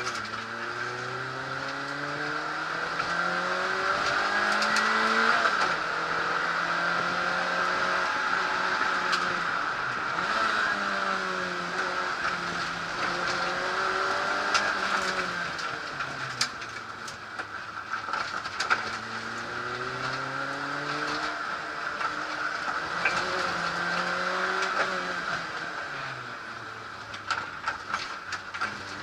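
Peugeot 106 N1 rally car engine revving hard, its pitch climbing and dropping back again and again as it works up and down through the gears. Scattered sharp ticks sound over it.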